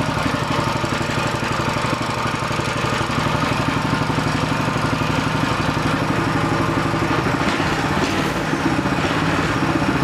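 Coleman CT200U-EX mini bike's 196 cc single-cylinder four-stroke engine idling steadily, a fairly quiet run.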